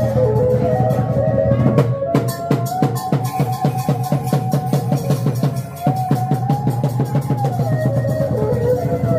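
Khmer chhay-yam festive music: fast, driving drumming with a single melody line above it that holds a note, then slides down, twice.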